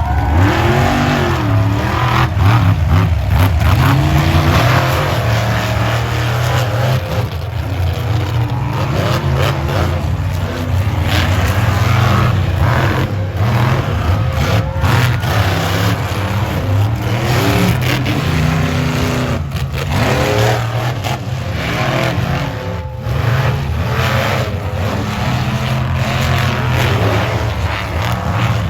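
Monster truck engine running hard, its pitch rising and falling repeatedly as the throttle is blipped and pulled off, over a heavy low rumble.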